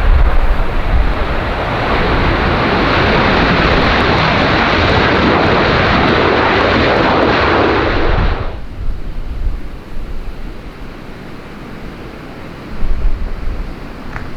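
Airliner's engines passing close by, a loud steady rush that swells and then cuts off abruptly about eight seconds in. Gusting wind rumbles on the microphone after it.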